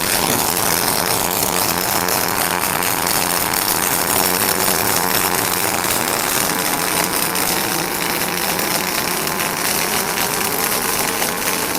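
Industrial robot running its programmed job, its tool giving a loud, steady rushing noise that does not let up.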